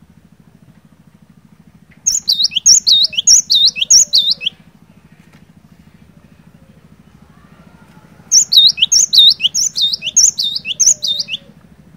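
Cinereous tit (glatik batu) singing in two bouts of quick, repeated two-note phrases, a high swooping note followed by a lower one, about two to three phrases a second. The first bout comes about two seconds in and the second near the end. A faint steady low hum runs underneath.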